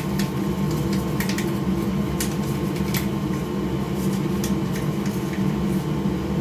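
A steady mechanical hum like a fan running, with a few short, dry scratches a second or so apart: an old toothbrush brushing dust off the dirty PS5's internals.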